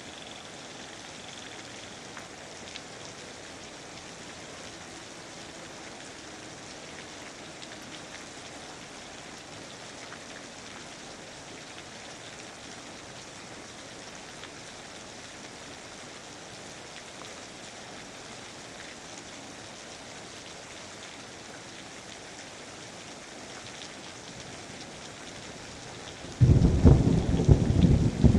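Steady rain falling, then a sudden loud crack of thunder rumbling near the end.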